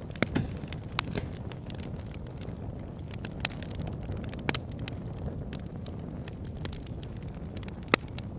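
Wood fire burning in a fireplace: a steady low rumble of the flames with irregular sharp crackles and pops from the burning logs, the sharpest pop near the end.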